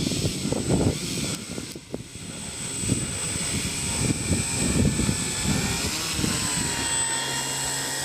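Electric motor and propeller of a radio-controlled Dynam Beaver model plane in flight: a steady high whine, with a fainter tone that dips and rises in pitch about six seconds in as the throttle or distance changes. Gusty wind buffets the microphone.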